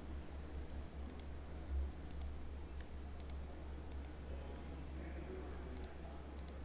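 Computer mouse clicks, a handful of quick clicks and double clicks a second or so apart, over a steady low hum.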